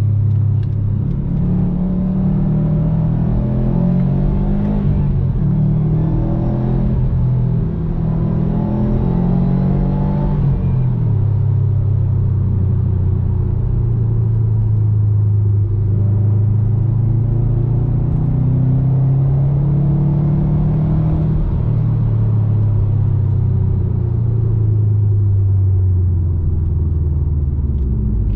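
2019 Subaru WRX STI's turbocharged 2.5-litre flat-four running through an Invidia N1 aftermarket exhaust while driving. The exhaust note is a low rumble whose pitch climbs and falls repeatedly, dropping sharply at about ten seconds in and again at the end, as the car accelerates and shifts.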